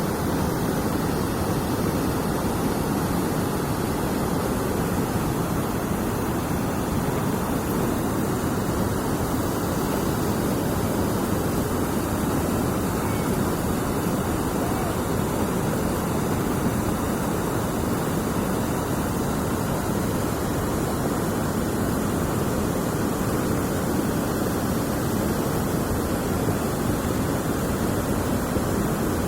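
Steady rush of water flowing out through a dam, an even, unbroken noise throughout.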